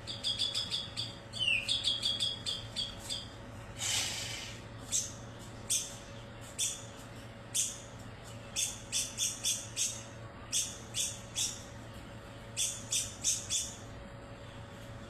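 White-rumped shama (murai batu) singing: clusters of short, sharp, high notes fired in quick succession, the rapid 'tembakan' bursts of its song, with a brief harsh rasp about four seconds in. A faint steady hum lies underneath.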